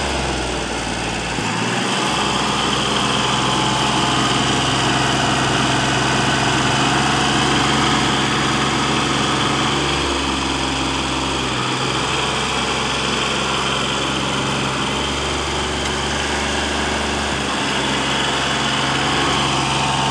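Engine of heavy machinery running steadily, its low hum shifting slightly now and then.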